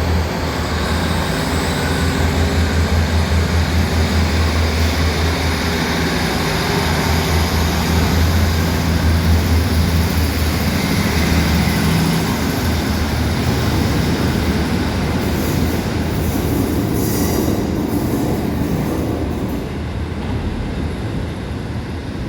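Northern Class 156 diesel multiple unit pulling out under power: a steady, pulsing diesel engine throb over rail and wheel noise, easing off near the end.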